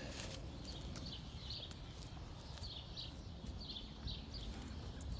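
Small birds chirping: short, high chirps at irregular intervals of about half a second to a second, over a steady low background rumble.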